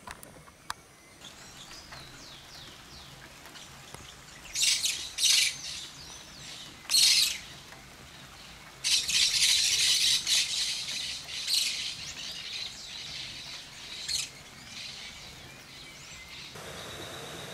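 Wild birds calling in the rainforest: a few short, harsh, high calls, then a longer run of chattering calls about halfway through, and one more call near the end.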